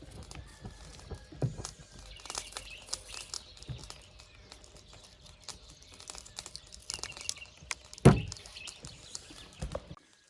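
Birds chirping outdoors over scattered light clicks and knocks, with one loud thump about eight seconds in; the sound cuts off abruptly just before the end.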